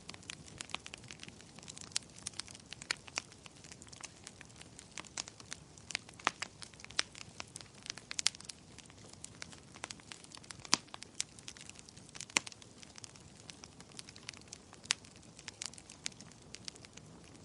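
Fireplace fire crackling: irregular sharp pops and snaps, a few standing out louder, over a soft steady hiss.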